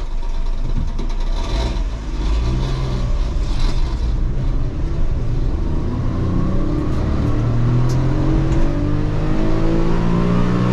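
Suzuki Alto kei car's 660cc three-cylinder engine accelerating hard, its pitch climbing steadily through the second half.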